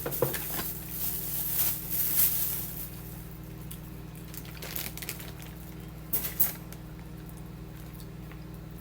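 Close-up eating sounds: chewing and handling a seafood boil, with scattered crunchy clicks in the first few seconds and a couple of sharp clicks about six seconds in, over a steady low hum.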